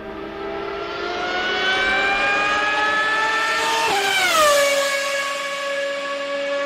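Ferrari Formula 1 car engine accelerating past at high revs. Its pitch climbs steadily as it approaches, drops sharply as it passes about four seconds in, and then holds steady as it moves away.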